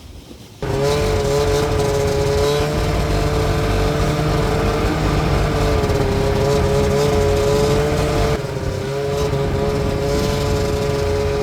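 Two-stroke snowmobile engine running at a steady pitch. It cuts in suddenly about half a second in and drops a little in level near the end.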